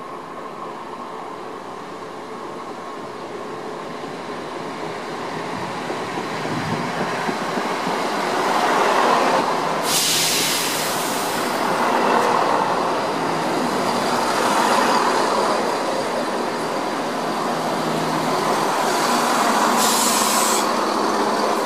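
A Chiltern Railways Class 168 'Clubman' four-car diesel multiple unit arriving, its diesel engines and wheels growing louder over the first nine seconds as it draws in and runs slowly past along the platform. Two short high hisses come about ten and twenty seconds in.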